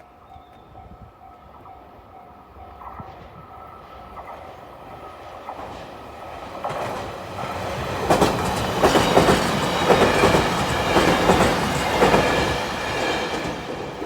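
Japanese level-crossing warning bell sounding a steady, evenly repeating ding. A train then approaches and passes over the crossing, its wheels clattering over the rail joints. The train grows louder through the middle and is loudest in the second half, drowning out the bell.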